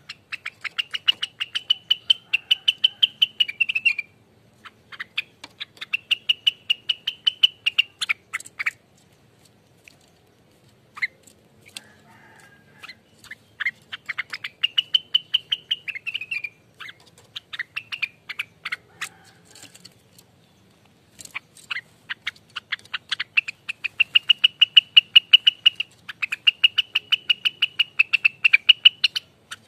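Rengganis bird singing its fast rattling 'ropelan' song: bouts of a few seconds of rapid repeated ticking notes run under a held, wavering high whistle, broken by short pauses, the longest about ten seconds in.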